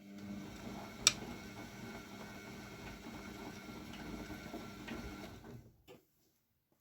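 AEG Lavamat W 1450 washing machine turning its drum during a wash of towels: the motor starts with a brief hum, the drum turns for about six seconds with the wet load tumbling and one sharp click about a second in, then the motor stops abruptly, the usual pause before the drum reverses.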